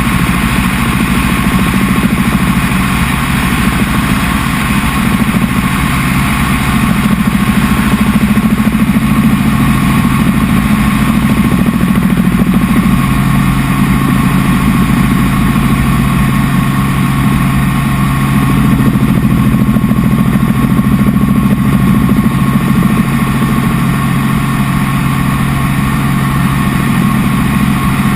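Helicopter engine and rotor noise, a loud steady drone heard on board in flight; a low hum in it grows stronger about halfway through.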